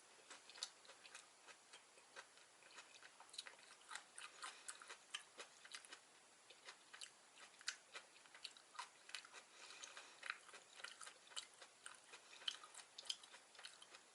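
A person chewing vegetable gopchang (chewy grilled intestines) close to the microphone: faint, irregular mouth clicks and smacks, several a second.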